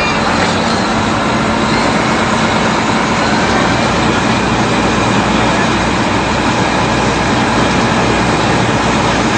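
Fire truck engine running steadily with a low, even hum.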